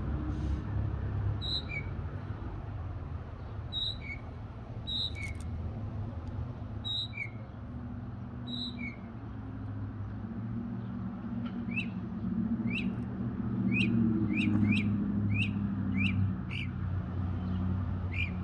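A bird singing overhead, repeating a two-note phrase, a high note followed by a lower one, about once every second or so, then switching about halfway through to a quicker run of short, sharp chirps, roughly two a second. A low steady hum runs underneath.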